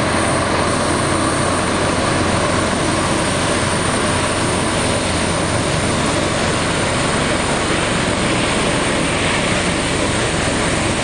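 Air Force aircraft engines running steadily at close range: a loud, even noise with a steady high whine over it.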